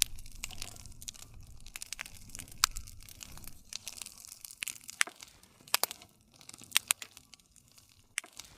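Wood campfire crackling steadily, with a dense run of small snaps and several louder, sharp pops of burning wood.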